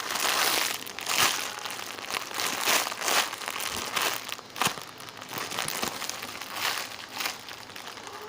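Plastic packaging crinkling and rustling in irregular strokes as a squishy toy is handled.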